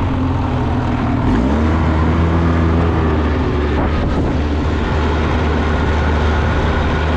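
Off-road vehicle engine running steadily under way, its pitch rising about a second and a half in and then holding.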